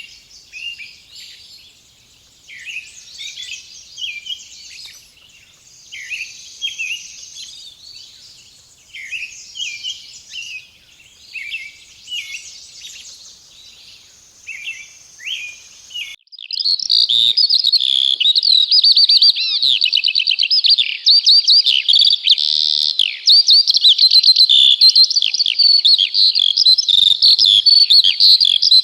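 Songbirds chirping and singing over a steady high hiss. About sixteen seconds in, the sound cuts abruptly to a much louder, dense chorus of rapid chirps and trills.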